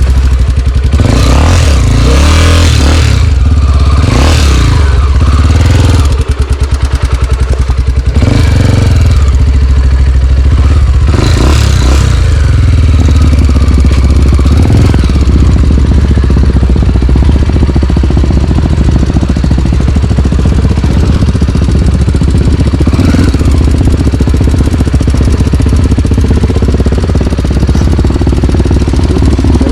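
Single-cylinder four-stroke trail motorcycle engine running hard, the throttle rising and falling, with a brief easing off about six seconds in.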